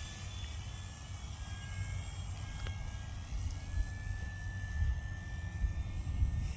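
Electric motor and propeller of a large E-flite Carbon-Z Cessna RC model airplane in flight: a thin steady whine that sags and rises slightly in pitch as it flies. Under it, a low rumble of wind on the microphone.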